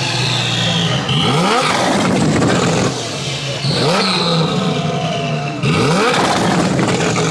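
Lamborghini engine revved hard again and again in quick stabs, each rev a fast rising sweep in pitch.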